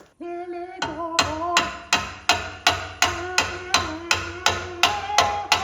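Hammer blows in a steady rhythm, about three a second, over background music carrying a held melody.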